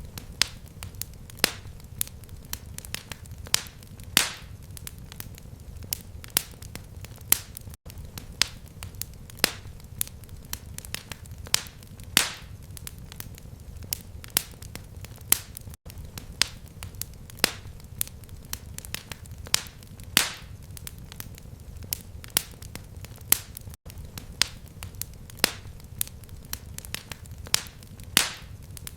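Fireplace fire crackling: irregular sharp pops and snaps, several a second, over a steady low rumble. There is a brief gap about every eight seconds where the sound loops.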